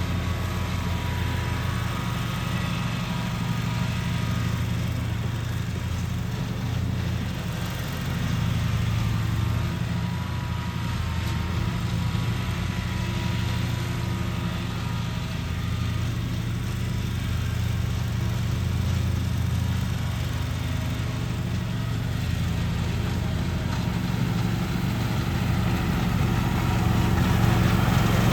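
Lawn mower engine running steadily under mowing load, getting louder near the end as it comes closer.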